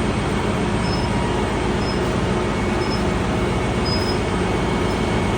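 Steady, even drone of engine-room machinery running aboard a ship, with a low hum and no separate knocks or bangs.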